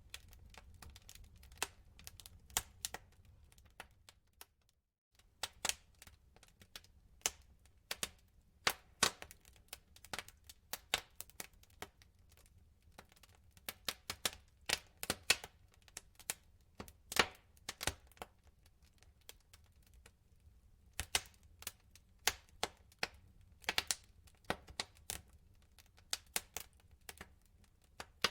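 Wood fire in a fireplace crackling, with irregular sharp pops and snaps from the burning logs over a low steady rumble. The sound drops out briefly about five seconds in.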